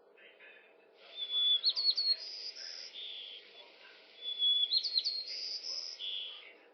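A bird singing two matching song phrases about three seconds apart. Each phrase is a short steady whistle, then quick rising notes, then buzzy higher notes.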